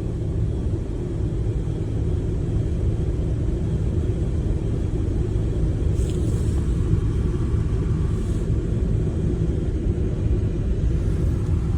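Steady low rush of a 2007 Chevrolet Trailblazer's HVAC blower on its top speed while the blend door actuators behind the dash cycle through a recalibration. Two faint brief sounds come about six and eight seconds in.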